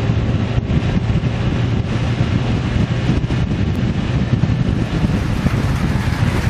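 A vehicle's engine drones steadily under heavy wind noise buffeting the microphone while under way.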